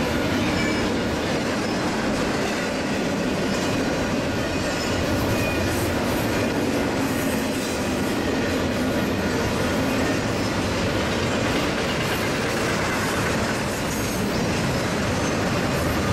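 Double-stack container freight train rolling past: a steady rumble and clatter of steel wheels on rail from the well cars, with faint high wheel-squeal tones.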